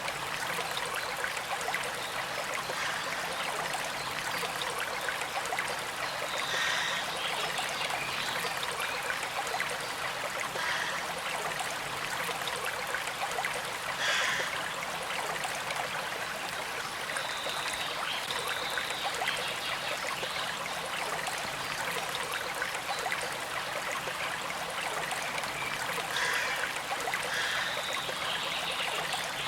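A small creek flowing and trickling steadily over stones, with a few brief brighter spots in the water sound.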